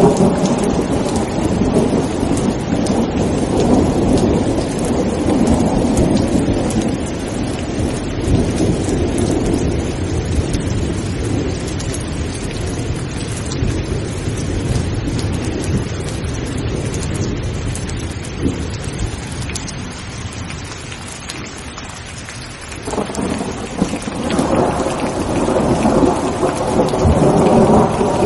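Heavy rain falling steadily with rolling thunder that rumbles on, dies down about twenty seconds in and builds again a few seconds later.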